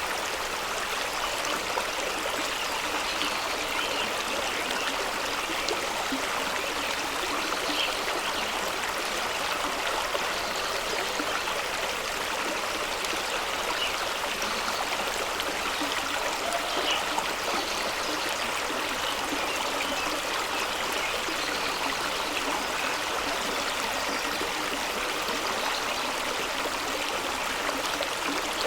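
Fast-running stream rushing and splashing over rocks below a small waterfall, a steady, even rush of water with small gurgles and splashes.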